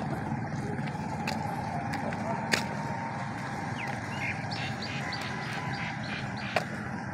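A bird calls a quick run of short, high chirps about four to six seconds in, over steady outdoor background noise with a few sharp clicks.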